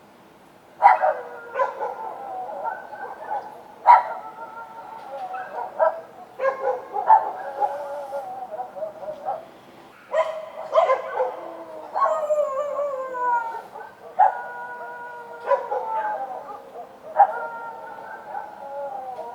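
Several street dogs barking and howling together: sharp barks every second or two, each trailing into a drawn-out cry that falls in pitch.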